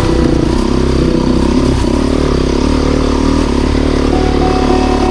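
Motorcycle engine running steadily on the trail, its pitch rising and falling slightly with the throttle.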